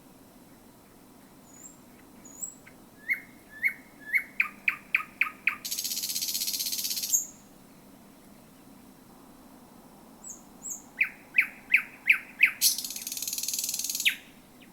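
Thrush nightingale singing: twice a run of sharp, quickening repeated notes, each ending in a dry, hissing rattle.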